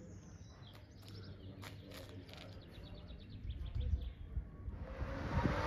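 Small birds chirping, with high falling chirps and a quick run of repeated short notes. About three and a half seconds in, a low, uneven rumble like wind buffeting the microphone comes up and grows louder toward the end.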